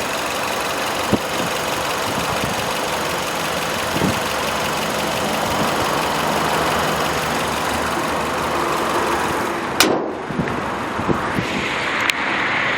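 Chery Tiggo's 1.6-litre inline-four engine idling steadily, with a few light knocks. A sharper knock comes about ten seconds in, after which the sound turns duller.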